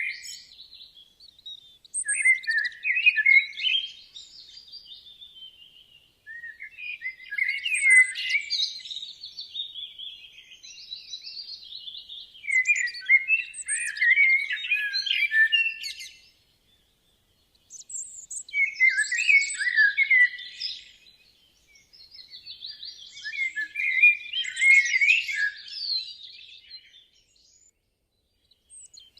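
Songbird singing: quick, intricate phrases of warbled and twittering notes, each lasting about three to four seconds, separated by short pauses, about six phrases in all.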